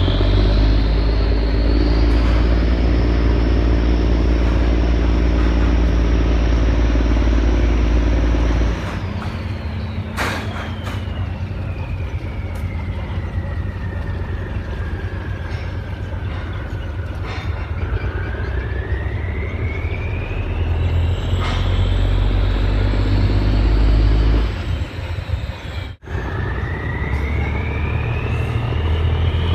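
Cummins diesel engine of a boat running under heavy load with a deep rumble. About nine seconds in it is throttled back, then it is revved up again, with a high whine falling and rising as the revs change, as the boat manoeuvres to turn in a tight spot. It drops off briefly near the end and picks up again.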